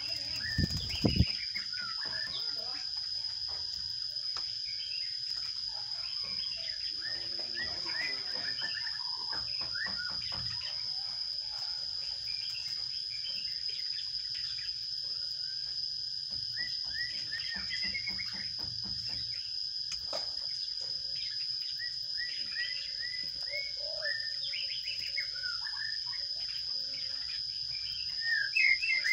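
Sparrows chirping in and around a nest box: scattered short chirps over a steady high-pitched hum, with the chirping getting louder and busier near the end.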